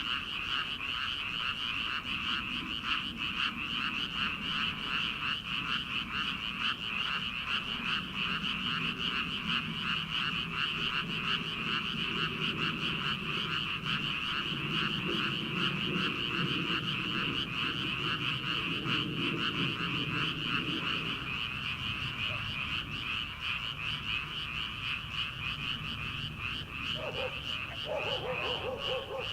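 A dense chorus of many rice-paddy frogs calling at once, a continuous fast-pulsing croaking, with a deeper croaking underneath. Near the end a different lower call joins in.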